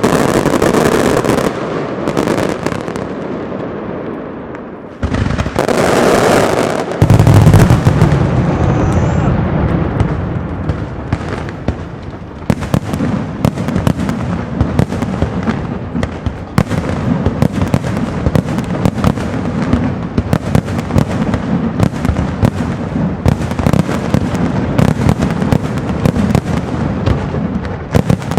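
Castillo fireworks display: heavy aerial shells bursting in the first few seconds and a loud low boom about seven seconds in, then a dense, rapid crackle of many small reports running on without pause.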